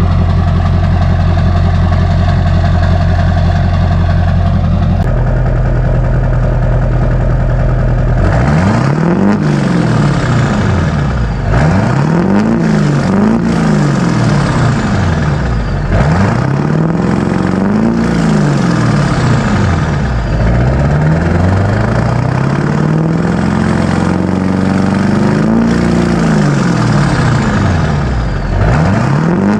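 LB7 Duramax 6.6 L V8 turbodiesel through a 4-inch straight-pipe exhaust with the muffler deleted, idling steadily for about eight seconds, then revved up and let fall back over and over, every two to three seconds. A faint high turbo whistle falls away after some of the revs.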